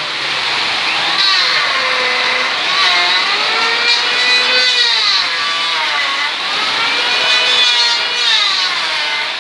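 Strong gusting wind howling and whistling, with several tones that slowly rise and fall over a steady rushing noise.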